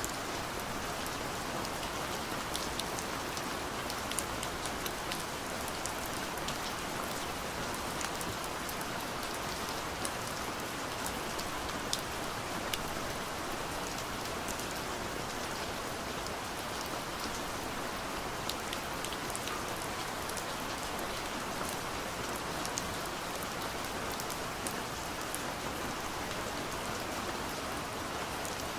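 Soft steady rain against a window, a constant hiss with many small scattered drop ticks.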